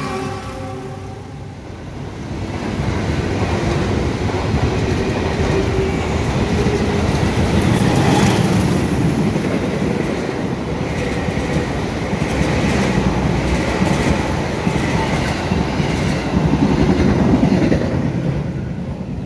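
Passenger trains passing close on adjacent tracks: the coaches of a locomotive-hauled train and a JR 205 series electric commuter train, wheels running on the rails in a steady loud rumble. It dips briefly a second or two in, then swells again.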